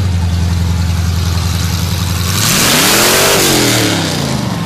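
Car engine running on open exhaust headers, idling steadily, then revved once about halfway through; the pitch climbs and falls back within about two seconds.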